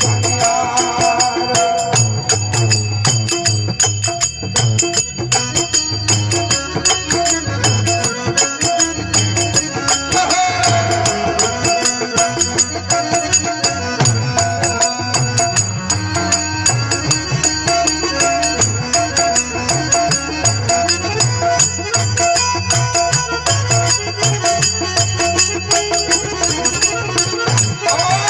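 Rajasthani folk bhajan music in an instrumental passage: a steady drum beat with jingling, tambourine-like percussion over held melodic notes.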